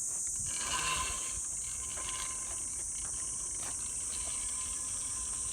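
Chorus of insects: a steady, high-pitched shrilling that holds at one level.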